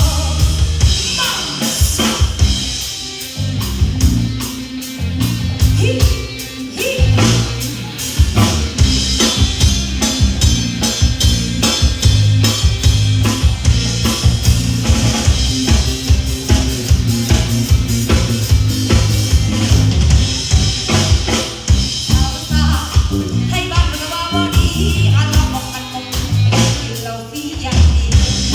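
Live band music: a drum kit keeping a steady beat with snare and bass drum, over a bass line.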